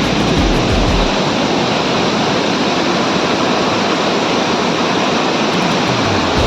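Waterfall rushing: a loud, steady wash of falling water, with a few low thumps in the first second.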